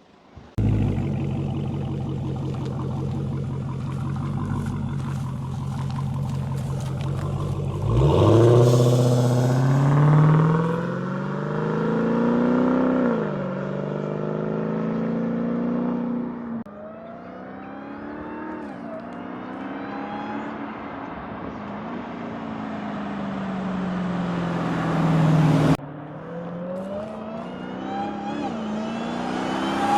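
Dodge Challenger SRT's supercharged 6.2-litre HEMI V8, breathing through its stock air filter, running steadily and then accelerating hard from about eight seconds in. Its pitch climbs and drops back several times as it goes up through the gears. A faint high supercharger whine rises along with it.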